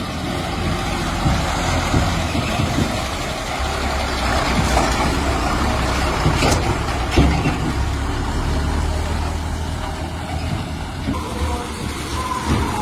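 Heavy diesel engines of backhoe loaders and a dump truck running steadily while mud is loaded, with a few short knocks midway.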